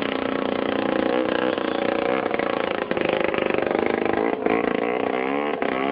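Drag racing boat engine running, its pitch wavering up and down as it revs.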